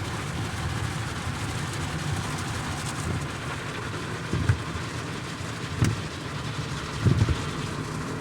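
High-pressure car-wash water spraying against the car body, heard from inside the car as a steady hiss over a low rumble. A few dull thumps come about halfway through and near the end.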